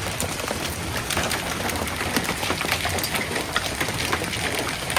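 Quarter-sized hailstones pelting down: a steady dense hiss full of many sharp separate clicks as the stones strike hard surfaces.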